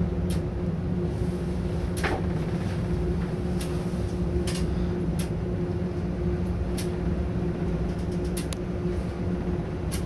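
Steady machinery hum inside the cab of an electric bucket wheel excavator, with a low steady tone and scattered sharp clicks and knocks.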